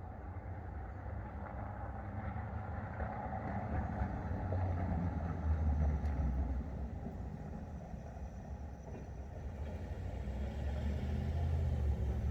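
A deep low rumble that swells about four seconds in, eases, then builds again near the end.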